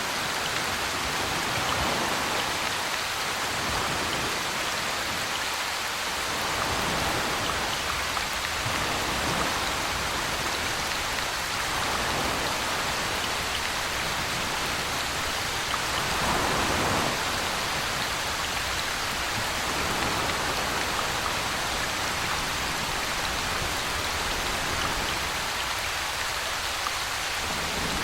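Steady rainfall, an even hiss of rain landing on surfaces, swelling slightly in loudness a few times.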